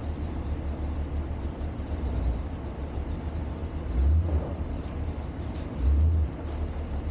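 Steady low vehicle rumble, swelling louder twice, about four and six seconds in.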